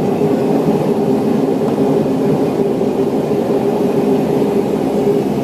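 Saab 340 turboprop's engines and propellers heard from inside the cabin: a loud, steady drone with a constant hum.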